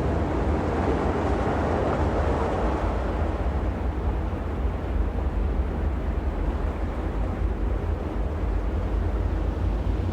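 Steady noise of a rainstorm with wind buffeting the microphone, a deep rumble under an even wash, a little stronger in the first few seconds.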